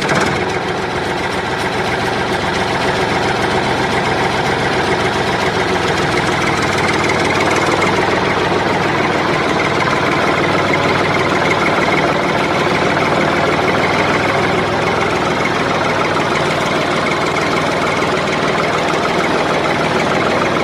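Tractor engine idling steadily, a continuous even running sound with a knocking beat.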